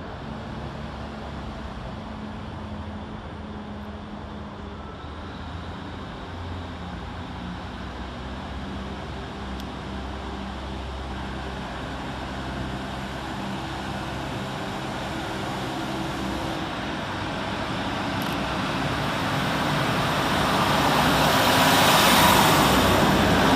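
Class 156 diesel multiple unit's underfloor diesel engines running steadily as it pulls out. The train noise grows louder toward the end and rises to a broad rush.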